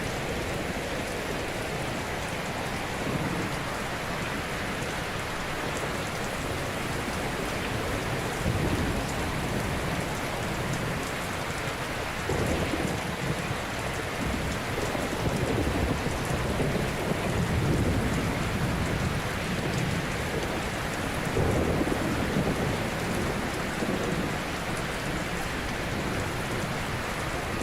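Ocean surf: waves breaking gently on a shore in a continuous wash, with a low swell rising every few seconds as each wave comes in.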